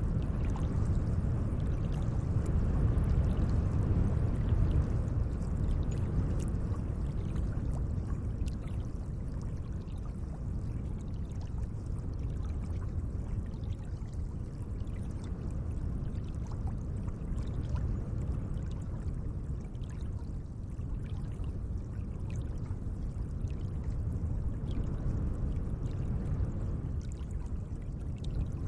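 Gentle lake water: a steady low wash of moving water, with faint small splashes.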